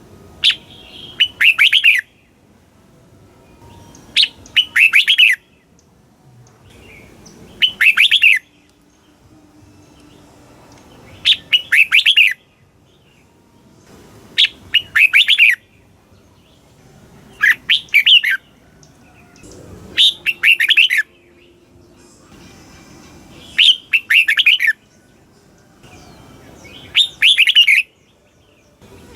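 Red-whiskered bulbul singing: the same short, quick phrase of a few notes again and again, about every three seconds. This is the song that keepers play to caged bulbuls to excite them and to teach young birds.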